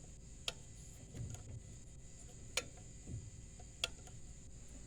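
Three sharp clicks a second or two apart, with soft knocks between, from working the controls of a Duo-Therm Brisk Air camper air conditioner before it starts, over a faint steady high-pitched hum.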